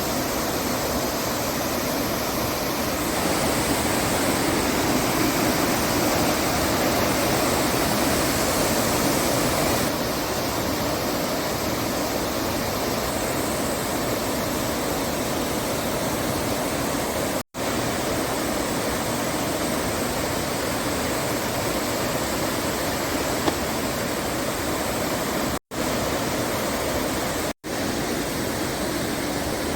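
Steady rushing of river water flowing over rocks, an even roar with no pitch. The sound drops out briefly three times in the last third.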